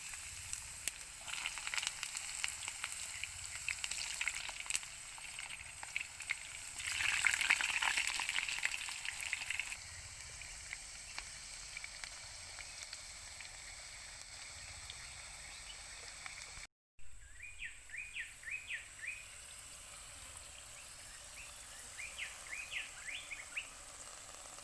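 Beef steak sizzling and crackling as it fries, loudest about a third of the way in and then settling to a steady hiss. After a brief cut, two short runs of quick high chirps sound over the sizzle.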